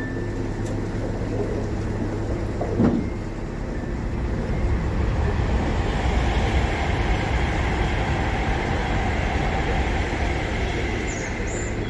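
Narrowboat's diesel engine running steadily under way, with a single knock about three seconds in and a rushing noise that swells from about four seconds in and holds until near the end.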